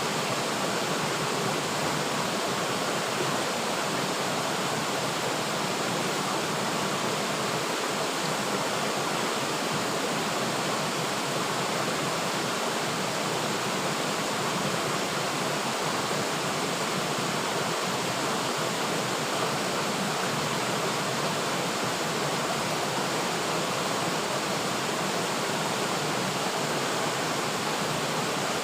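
River water flowing steadily, a continuous even rushing noise with no breaks.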